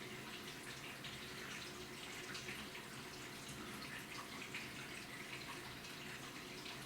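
AQUA washing machine with water running and splashing steadily in its tub, over a faint steady hum.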